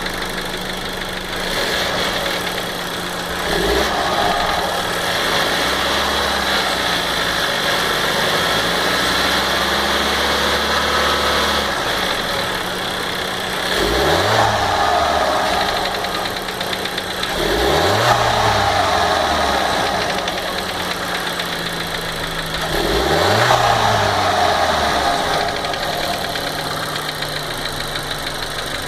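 Engine of a 2015 VW Golf Variant 1.4 TSI (turbocharged four-cylinder) idling and being revved up and back down about four times, with revs held up for several seconds once. The owner likens its strange noise to a tappet knocking and suspects oil not reaching it properly at some moments.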